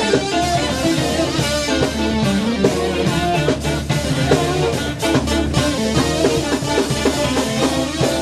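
Live funk band playing an instrumental passage, with guitar and drum kit over a steady bass.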